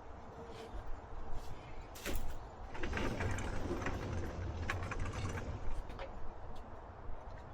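Scattered clicks, knocks and rattles of a folding camp cot's frame being handled and assembled, over a steady low rumble of wind.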